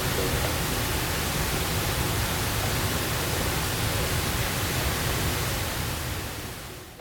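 Steady rushing water noise, fading out over the last second or so.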